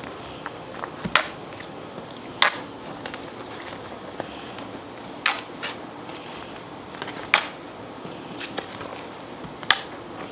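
Hands handling items on a work table, giving sharp clicks and taps over a steady background hiss. There are about five louder clicks spread through it and lighter ticks in between.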